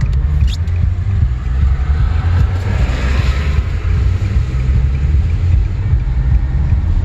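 Steady low rumble of a vehicle driving, with a hiss that swells and fades about three seconds in.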